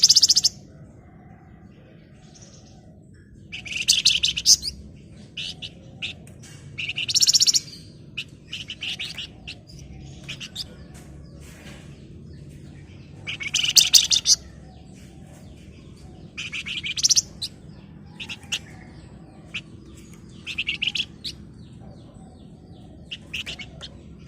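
A flamboyan songbird singing: dense, rapid rattling trills of about a second each, repeated every few seconds, with short sharp chirps in between, over a steady low background hum.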